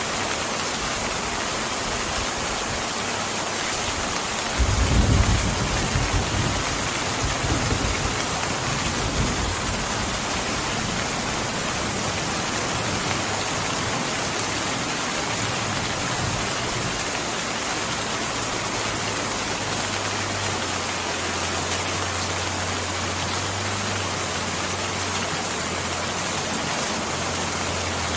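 Steady heavy rain falling, with a low roll of distant thunder about five seconds in that fades out over several seconds.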